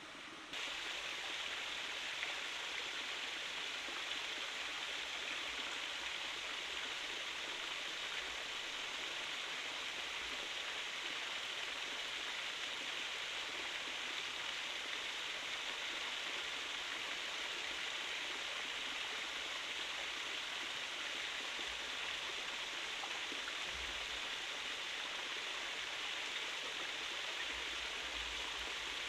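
Forest stream running steadily, an even rush of water that cuts in suddenly about half a second in.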